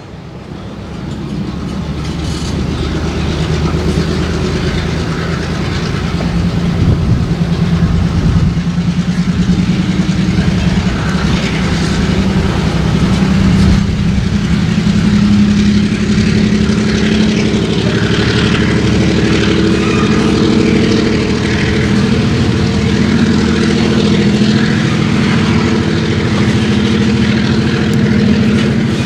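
Diesel freight locomotive running close by, its engine growing louder over the first few seconds and then holding steady, with the rumble of wheels on rail.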